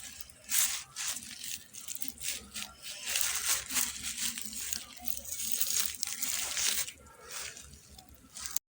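Irregular bursts of rustling and crinkling, cutting off suddenly near the end.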